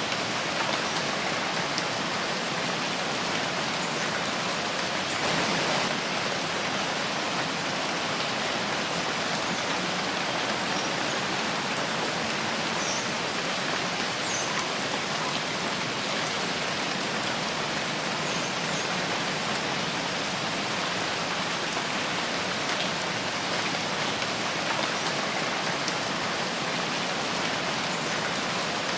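Steady rain falling in a forest: an even hiss of many drops, with a slight swell about five seconds in.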